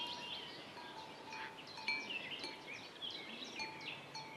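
Faint outdoor ambience of small birds chirping, with light bell-like tinkling; no yak call is heard.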